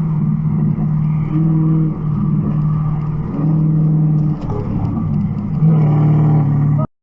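Car engine running with a steady pitched drone whose note shifts a few times, then cuts off suddenly near the end.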